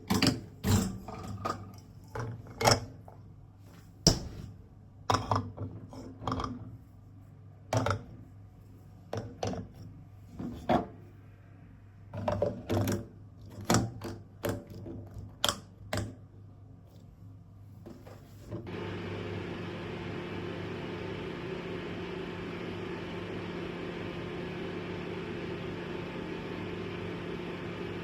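Irregular clicks and clatters of things being handled, then, about two-thirds of the way in, a household appliance switches on and runs with a steady hum.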